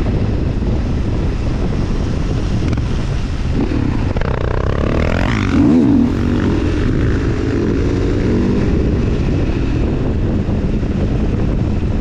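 Supermoto motorcycle riding with heavy wind rush on the microphone; about halfway through, a motorcycle engine's pitch dips and rises again.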